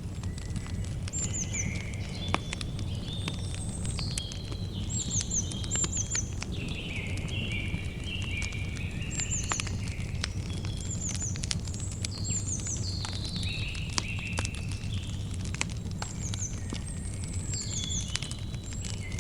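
Campfire crackling with many sharp pops, while several birds sing and chirp throughout, over a steady low rumble.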